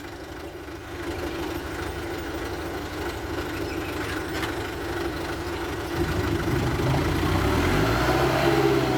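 Mitsubishi Canter dump truck's diesel engine running and gradually getting louder. About six seconds in it picks up into a louder, steady low drone as it works under load.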